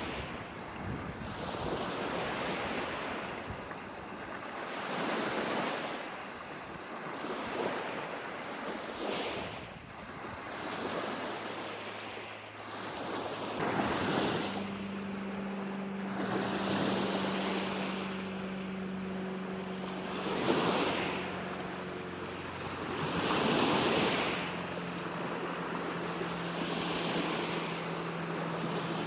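Small lake waves washing onto a sandy shore, swelling and falling about every two seconds. About a third of the way in a steady low engine hum joins them and carries on.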